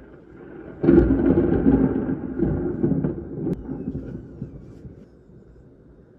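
A thunderclap: a sudden sharp crack about a second in, then a low rumble that dies away over the next four seconds.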